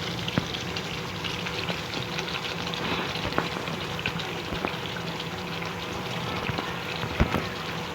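Thick chicken vindaloo curry cooking in the pan, a steady sizzle and bubble with small scattered pops, the dish nearly done.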